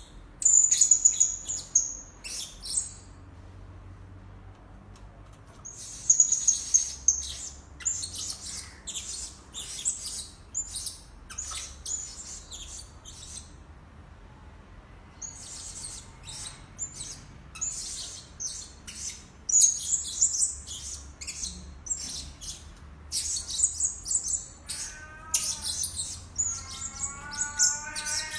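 Blue-crowned hanging parrot giving rapid, shrill, high-pitched chirps in bursts separated by short pauses. Near the end a series of lower, repeated falling notes joins in.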